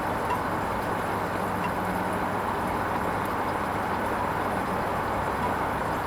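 Hoover Vision HVP16 washing machine running through its Silks 30 programme: a steady mechanical hum with a low drone and no distinct knocks.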